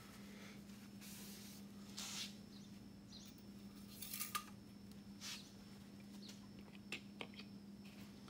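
Faint handling noises under the hood: a few soft rustles and light scrapes over a steady low hum.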